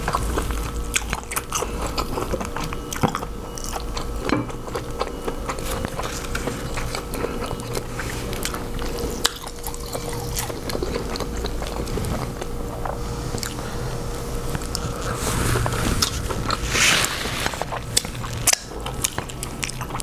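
Close-up mukbang eating sounds of a king crab seafood boil: chewing and biting, with frequent small clicks and crackles from the food and shells. A few louder crackles come near the end, over a steady low hum.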